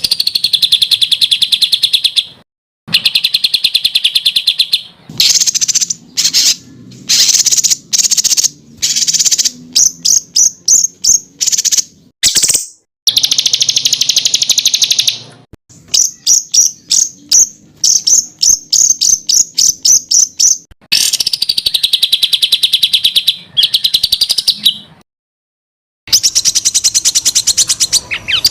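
Songbird song in fast, sharp trills and rapid strings of repeated high notes (the 'tembakan' phrases used for training competition birds). It comes in phrases of a second or a few seconds that start and stop abruptly, with short gaps between them and a longer pause near the end.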